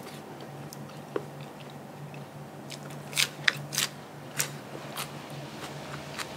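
Close-miked biting and chewing of crunchy food, with a cluster of loud crunches about three seconds in and more scattered after. A steady low hum runs underneath.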